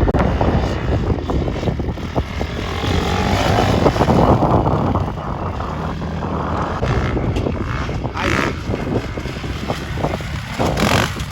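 Off-road motorcycle engines running and revving, with a rising rev a few seconds in.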